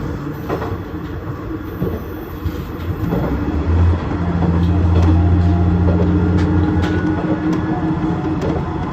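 KiHa 110 series diesel railcar running along the line: a steady engine drone with scattered clicks of the wheels over rail joints. About four seconds in, the engine note shifts and grows louder.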